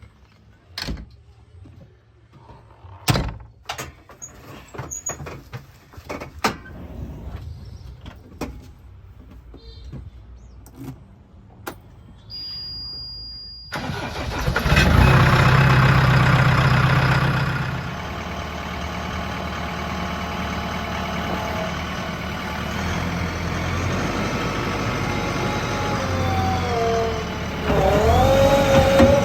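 Scattered knocks and clicks over a faint engine hum, then a short high beep, after which a diesel engine starts with a loud burst about halfway through and settles into steady running. Near the end a wavering pitched sound rises above the engine.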